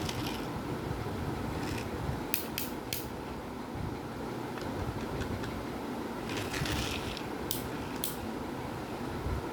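JCB 2DX backhoe loader's diesel engine running steadily while it works, with a few short, sharp clicks from the machine, three together about two and a half seconds in and two more near the end.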